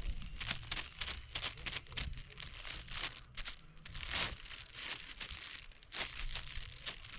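Irregular crinkling and rustling noises, many short scrapes in quick succession, some louder ones about three, four and six seconds in, over a low rumble.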